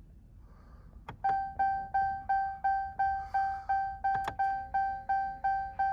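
A pickup's dashboard warning chime dings steadily, about three times a second, starting just after a click about a second in. A second sharp click comes about four seconds in, and a faint steady hum joins soon after.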